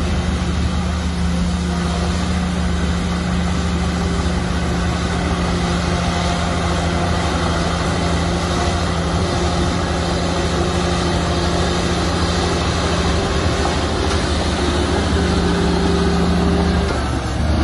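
Large diesel bulldozer engine running steadily under load, with a brief dip just before the end.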